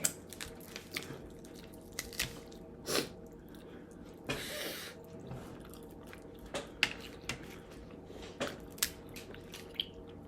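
Close-miked eating sounds: chewing and mouth smacks, with scattered sharp clicks and a short noisy burst about four seconds in.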